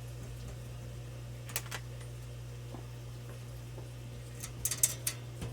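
Metal parts of a tool rack clicking and clinking as they are handled during assembly: two sharp clicks about a second and a half in, then a quick run of about five near the end, over a steady low hum.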